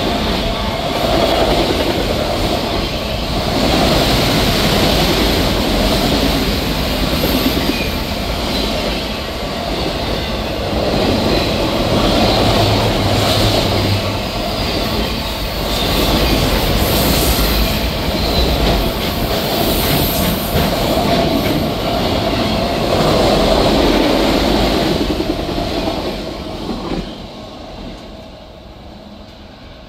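Autorack freight train passing close at track speed: a steady rumble and clatter of steel wheels on the rails, fading away over the last few seconds as the end of the train goes by.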